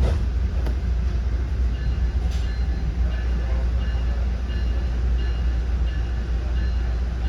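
Commuter train running on the rails, a steady loud low rumble as heard from inside the passenger car. From about two seconds in, a faint high beep repeats about twice a second over it.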